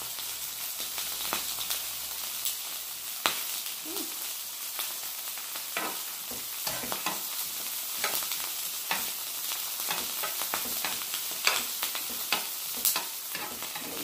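Ribeye steak and diced onions sizzling in oil on a flat griddle, with a metal spatula scraping and tapping the griddle as the onions are pushed around. Sharp clicks and taps come every second or so over the steady hiss.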